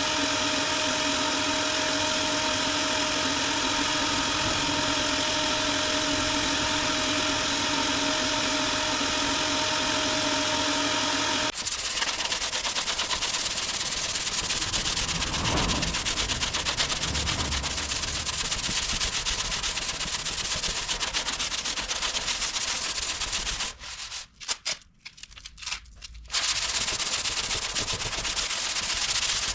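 Sanding body filler on a car's front wing. First comes the steady whine of a power tool's motor. After an abrupt change a little before halfway, there is a coarse, steady rasp of abrasive on the filler, broken by a few brief stops near the end.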